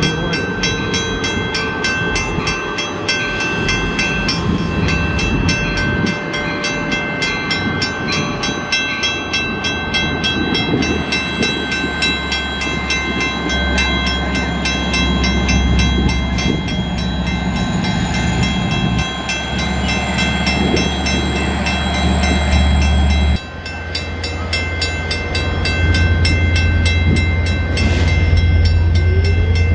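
Diesel locomotive of an LIRR train running in the station, its engine rumble building and stepping up. A railroad crossing bell rings rapidly and steadily throughout. About two thirds of the way in the engine sound drops suddenly, then comes back stronger.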